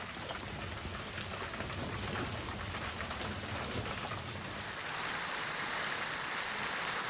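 Torrential wind-driven rain in a violent storm, with wind rumbling on the microphone. About five seconds in it changes to a steadier, denser hiss of heavy rain.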